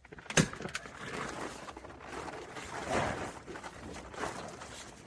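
A sharp knock about half a second in, then plastic vapor-barrier film rustling and crinkling as it is handled, swelling in a few louder bursts.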